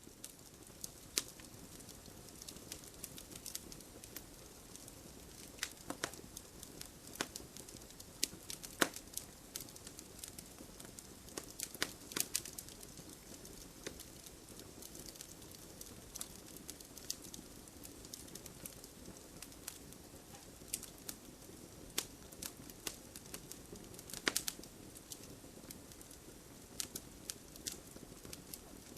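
Wood fire crackling: a steady soft hiss with scattered sharp pops and snaps at irregular intervals.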